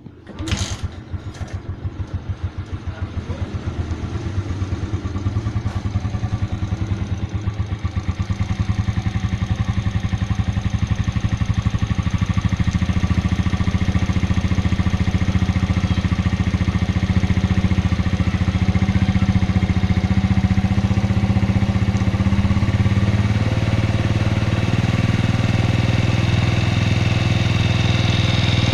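A Suzuki Shogun 125R's single-cylinder four-stroke engine starting up, firing unevenly and getting steadily louder over the first several seconds, then settling into a steady idle.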